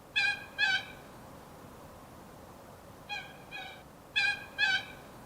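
Coot calling: three pairs of short, nasal honking notes, each pair about half a second apart, the middle pair fainter.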